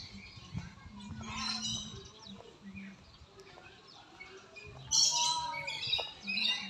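Birds in a wire-mesh aviary chirping and calling in quick high bursts, a small flurry at about one and a half seconds and a louder, busier flurry from about five seconds in.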